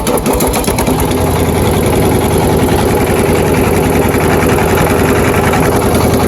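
Single-cylinder DF 1110 20 hp diesel engine running steadily with a rapid, even firing beat, a deep hum filling in about a second in. It runs evenly, as a barely used engine in sound condition should.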